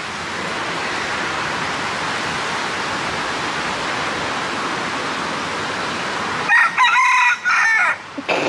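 Steady rush of a waterfall, then about six and a half seconds in a rooster crows loudly for about a second and a half.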